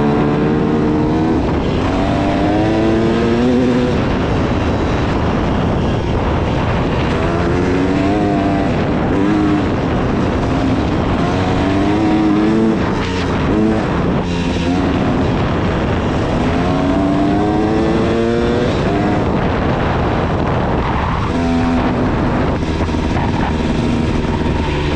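KTM 300 two-stroke dirt bike engine under hard riding, revving up in several rising sweeps and dropping back between them as the throttle is worked.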